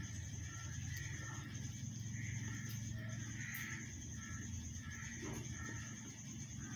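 Mynah birds giving short, repeated calls over a steady low hum.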